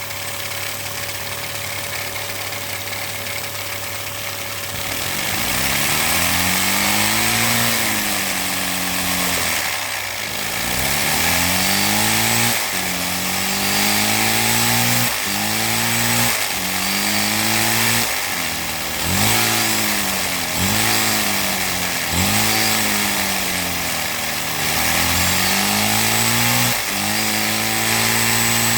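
Lego vacuum-powered inline two-cylinder engine with butterfly poppet valves running fast over a steady hiss. From about five seconds in, its buzzing pitch rises and falls again and again as it speeds up and slows down.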